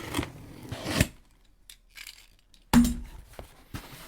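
A cardboard shipping box being opened: tape and packaging rustling and tearing, with a sharp knock about a second in and a louder thud near the three-second mark.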